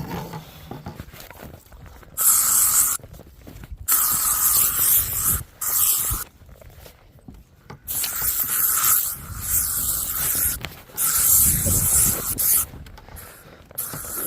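Aerosol can of bug spray being sprayed in about six hissing bursts of roughly a second each, with short pauses between, as insect repellent is reapplied against horseflies.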